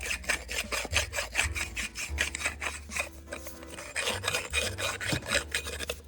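Emery cloth rubbed back and forth in quick strokes over a scarred part from the dump truck's PTO, sanding it smooth.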